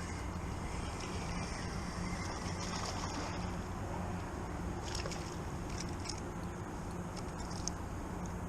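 Boat motor idling steadily in a low even hum, with a few light clicks about five seconds in and again near the end.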